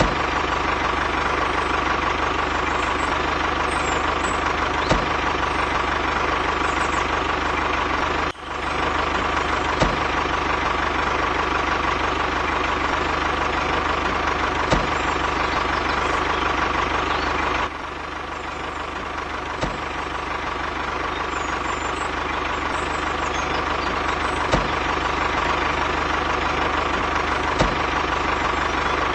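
Steady engine-like running drone with a constant whine, broken by a sudden brief dropout about a third of the way in and a drop in level a little past halfway, with a few light clicks.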